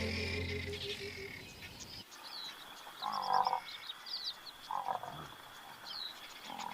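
Music fades out over the first two seconds, leaving outdoor ambience in which a frog croaks three times, a few seconds apart. Small high chirps and a thin steady high trill run under it.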